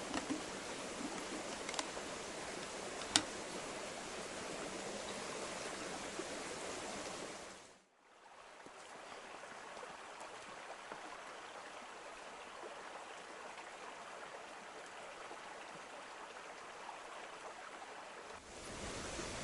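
Steady rushing of flowing water, like a nearby stream, with a couple of faint clicks in the first few seconds. It drops out briefly about eight seconds in and comes back quieter, rising again near the end.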